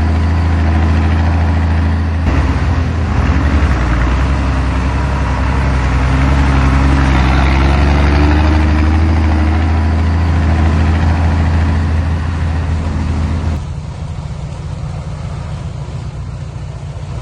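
Heavy diesel engine running loud under a broad rushing noise. Near the end it drops suddenly to a quieter low hum.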